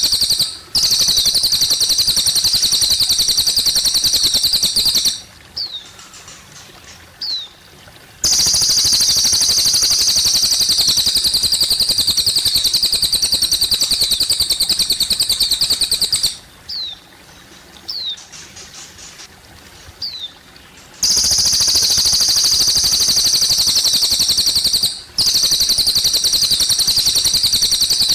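A cililin bird singing long, fast, high-pitched trilled phrases of several seconds each, three runs in all. In the short pauses between them come a few brief downward chirps, over a faint trickle of water.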